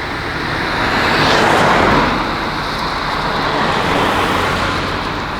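Tuned BMW 540i driving past, its engine and tyre noise swelling to a peak about two seconds in and fading, with a second, smaller swell about four seconds in.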